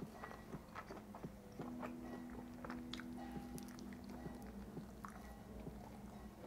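Close-miked biting and chewing of a slice of fire-brick-oven pizza, with many small wet clicks and crunches of the crust. A low steady hum runs for a couple of seconds in the middle.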